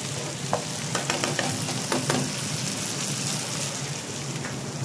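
Dal mash (urad dal) sizzling in a metal frying pan as a metal spatula stirs it, with a few sharp clicks of the spatula scraping and knocking on the pan.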